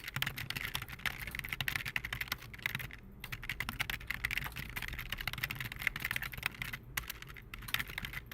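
Rapid keyboard typing: a dense run of clicks, with short pauses about three seconds in and near seven seconds, over a low steady hum.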